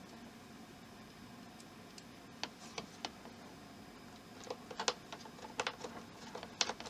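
Light clicks and taps of small plastic model-kit parts being handled and pressed into place, a few scattered ones with a cluster around the middle.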